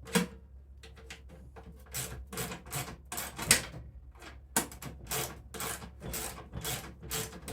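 A run of irregular knocks and clatters, as of metal parts and tools being picked up, set down and rummaged through, with a steady low hum underneath.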